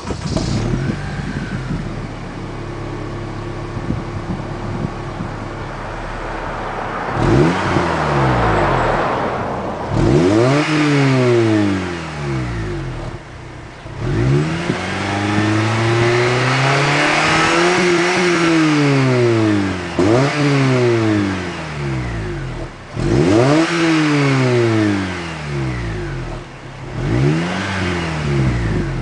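2009 Honda Civic Si's 2.0-litre four-cylinder engine idling, then revved repeatedly while stationary. Each rev rises and falls, and one slower, longer climb and fall comes in the middle.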